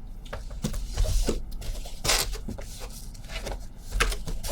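Cardboard hobby boxes rubbing, scuffing and knocking against a cardboard case as they are worked loose from a tightly packed case: short scrapes, with a louder scrape about two seconds in and a sharp knock near the end.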